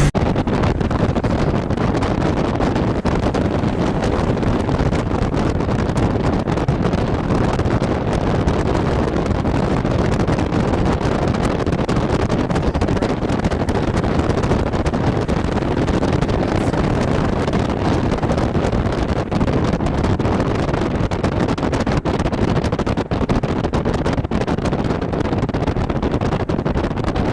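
Strong wind rushing and buffeting against the microphone, a steady loud roar of noise with no distinct tones.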